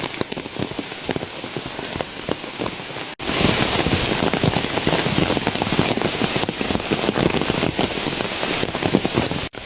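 Heavy mountain rain falling, a dense patter of drops. About three seconds in it cuts off for an instant and comes back louder.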